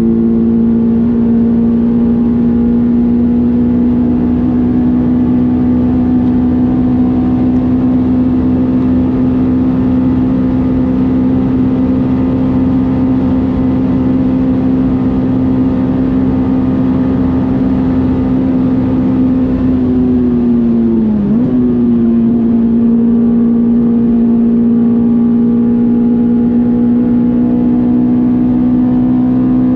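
Honda S2000's 2.2-litre F22 four-cylinder engine running at a steady, nearly constant pitch. About 21 seconds in the note dips briefly, then settles back to the same steady pitch.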